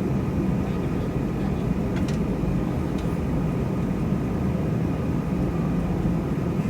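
Steady engine and air noise of an Airbus A321 airliner, an even low hum with a faint high whine, and a few faint clicks about two and three seconds in.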